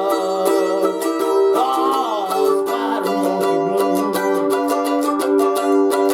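An eight-string plucked instrument playing a blues, chords struck at a steady rhythm with a few notes bending in pitch about two seconds in. It comes in sharply, on the count of the countdown.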